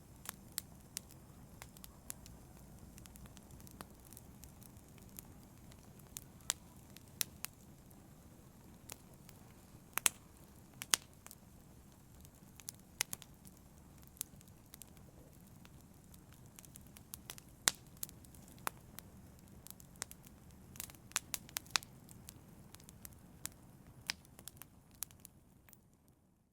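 Wood fire crackling in a fireplace: irregular sharp snaps and pops over a low steady rumble of the burning fire, fading out at the very end.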